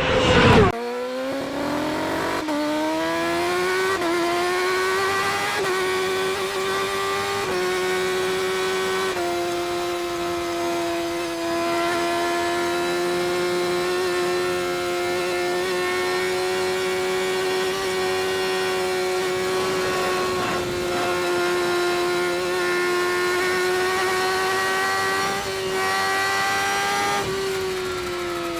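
Racing motorcycle engine at high revs. The pitch drops sharply in the first second, then climbs through several quick gear changes over the next eight seconds, holds a steady high note for most of the run, and falls away near the end.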